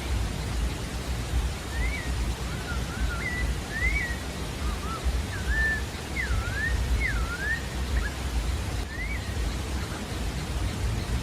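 Sabiá-da-várzea singing: a phrase of short, clear whistled notes that swoop up and down, starting about two seconds in and ending about nine seconds in, over a steady low rumble of background noise.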